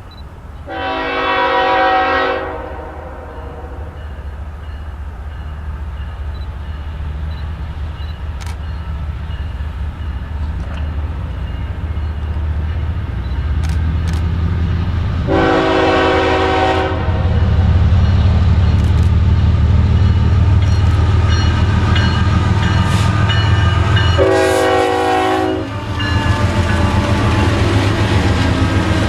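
Diesel locomotive approaching and sounding its multi-chime air horn three times: about a second in, about halfway through, and again near the end. Under the horn, the low rumble of the engine builds steadily as the train draws near.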